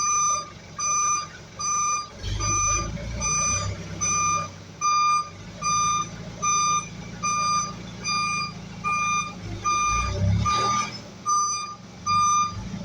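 Reversing alarm beeping steadily, a little more than one beep a second. Under it a low engine rumble starts about two seconds in and drops away near the end.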